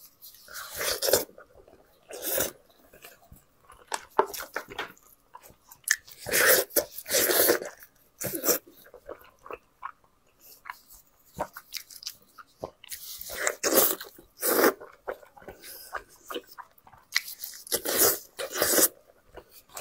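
A person biting and chewing braised sheep head meat close to the microphone: irregular bursts of crunching and mouth sounds, some of them loud, with short quiet gaps between.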